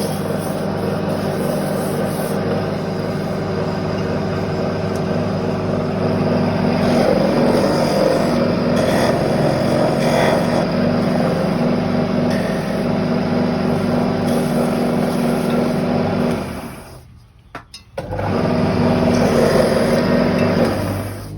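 Wood lathe motor running steadily, with the rough sound of a turning tool cutting the spinning wood growing stronger partway through. The sound drops out for about a second and a half near the end, then starts again.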